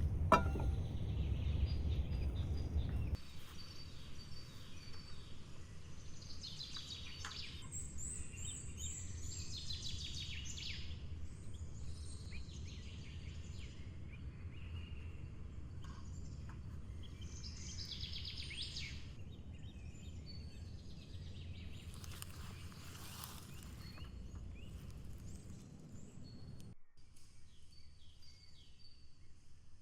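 Forest ambience: several birds chirping and singing in short high calls over a steady low background noise, the calls thinning out near the end. A sharp click comes right at the start, and the background is louder for the first few seconds.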